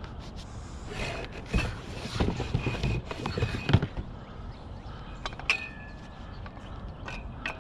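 Scrap metal pieces knocking and clanking together as they are picked up by hand. The knocks come in an irregular cluster, and a few of them ring briefly with a metallic tone.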